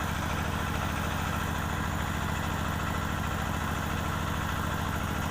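An engine running steadily at an even speed, unchanged throughout.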